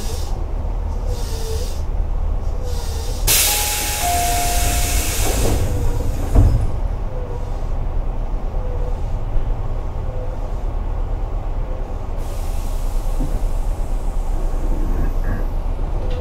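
Tobu 8000 series commuter train heard from inside while running: a steady low rumble of wheels on rail and the traction gear. A loud hiss of air about three seconds in lasts around two seconds, and a single thump follows about six seconds in.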